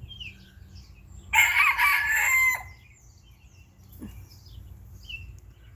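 A loud bird call lasting over a second, with several stacked, wavering tones, ending in a falling note, about a second and a half in. Short, faint bird chirps come before and after it.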